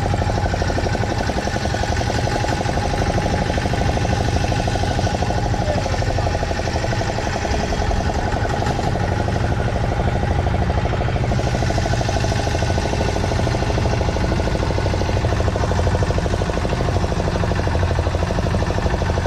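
Boat engine running steadily at an even pace, a constant drone with a hiss above it.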